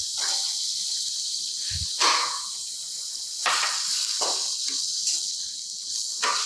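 Grated ripe yellow pumpkin frying in hot ghee in a steel kadhai: a steady sizzle, with a perforated spatula stirring and scraping the pan several times.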